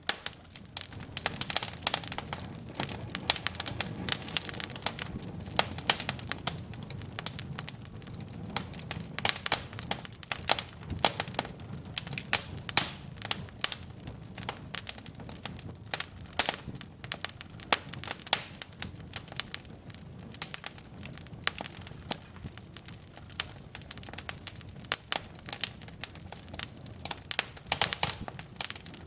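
Wood fire burning in a fireplace: burning logs crackling and popping in quick irregular snaps over a steady low rumble of flame.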